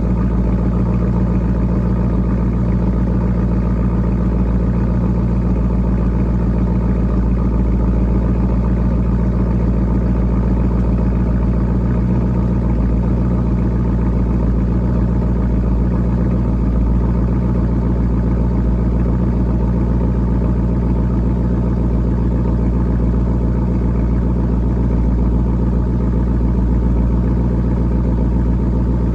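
Chevrolet Camaro Z28's LS1 5.7-litre V8 idling steadily through a muffler-delete exhaust: the mufflers are removed and the factory pipes run on to the tips, giving a raspy note.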